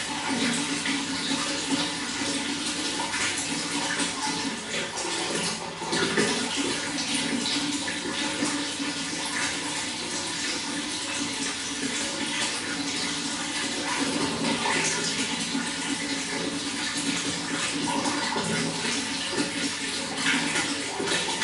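Running water flowing and splashing steadily, without pause.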